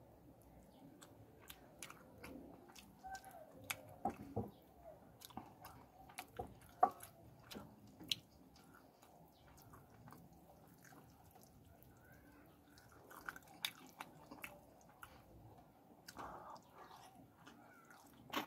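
Quiet, wet chewing of a person eating spicy fish curry with his hands, with scattered sharp mouth clicks and smacks.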